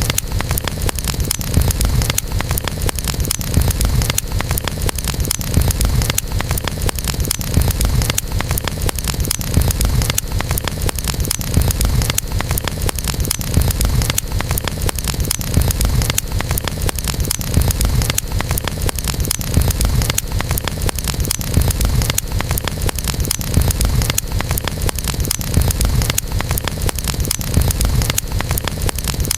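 Campfire burning: a dense run of small crackles and pops over a steady low rumble.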